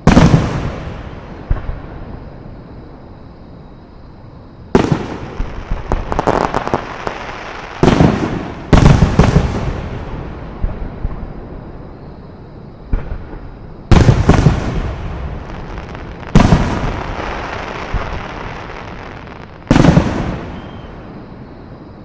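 Fireworks display: aerial shells going off in about seven loud bangs at uneven intervals, each trailing off in a fading echo over a couple of seconds, with crackling after one about five seconds in.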